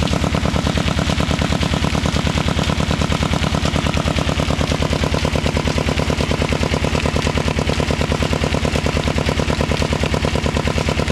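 Large old-style diesel engine of about 35 hp running steadily under load, driving a tubewell pump, its exhaust beating in a fast, even rhythm.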